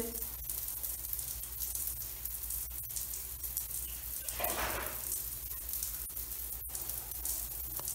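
Shower water running with a steady hiss, and a brief louder rush of noise about four and a half seconds in.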